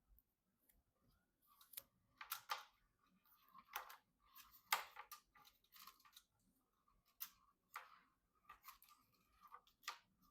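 Faint, irregular clicks and rustles of PC parts and packaging being handled during assembly. The loudest clicks come about two and a half and five seconds in.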